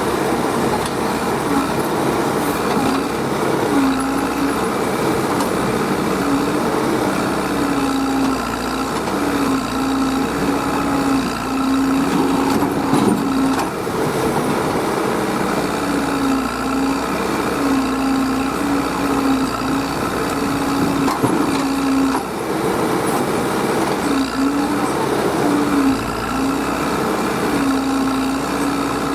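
Heavy machinery's diesel engine running steadily, its pitch dipping briefly several times as the load changes.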